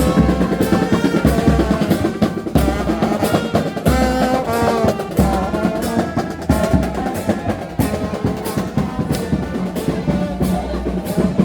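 Brass band music with drums: horns play a melody over a steady drumbeat of about two strokes a second.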